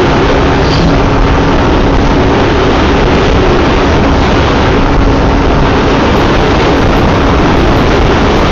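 Yamaha FZ V3 motorcycle riding at a steady speed: a loud, steady rush of wind noise on the rider's microphone over a faint even engine hum.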